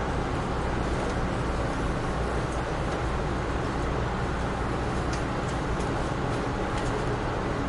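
Amtrak Northeast Regional passenger train running along the track, heard from on board: a steady rumble and rush of the wheels on the rails, with a few faint clicks in the second half.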